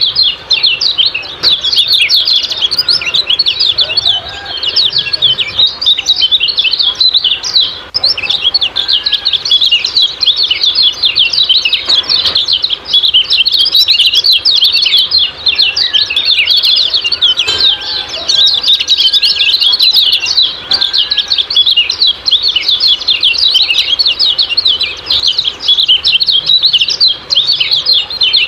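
Common iora (kecial kuning) giving a rapid, unbroken stream of high 'ciak-ciak' chattering chirps. A few fainter, lower whistled notes come in now and then.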